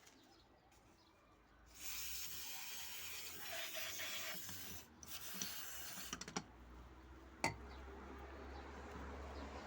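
A rasping hiss, like rubbing or spraying, starting about two seconds in and running for about three seconds, breaking briefly and resuming for about another second. It is followed by a few light clicks and one sharp click, then a low hum.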